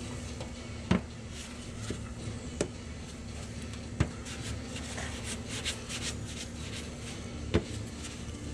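Clay bar being rubbed over a car's painted surface to lift paint overspray, a scratchy rubbing sound, with four sharp knocks spread through and a steady low hum underneath.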